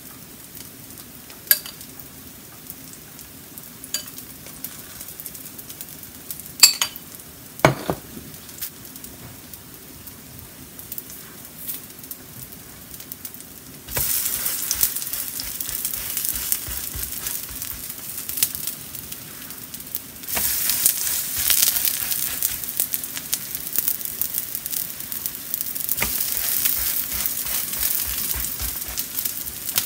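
Vegetable-potato pancakes frying in oil on an electric griddle. The first half is quiet apart from a few light utensil clicks. About halfway through a loud sizzle starts suddenly as a pancake is flipped onto the oiled surface, and it grows louder again about six seconds later as more are turned.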